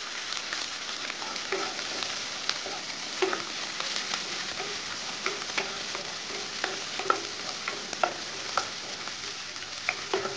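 Chopped small onions, green chillies and garlic sizzling in hot oil in a non-stick kadai while a wooden spatula stirs them, with irregular light clicks and scrapes as it works.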